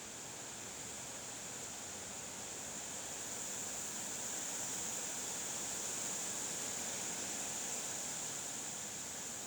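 Steady hiss of wind, swelling slowly to a peak about halfway through and easing a little near the end.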